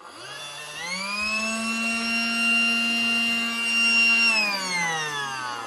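A battery-powered vacuum cleaner's motor is switched on and spins up to a steady whine, runs for a few seconds, then is switched off and winds down, falling in pitch near the end.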